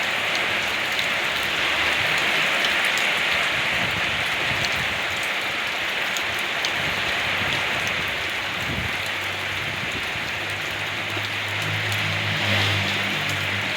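Steady rain falling on surfaces, with scattered individual drips ticking through it. A low hum joins in from about nine seconds in.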